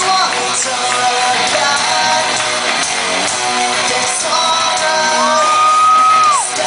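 Pop-punk band playing live: electric guitars and drums with shouted singing. About five seconds in, a high note is held for over a second, then slides down and cuts off.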